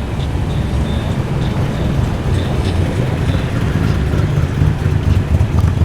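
Muscle car's engine rumbling at low revs as the car rolls slowly in, growing louder from about halfway through.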